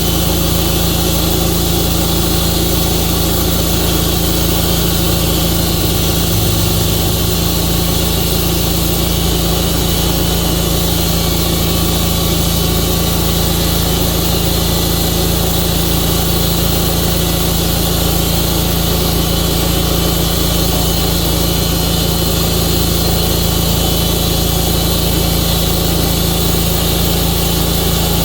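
Tru-Cut band sawmill's engine running steadily at an even speed with no change in pitch or level.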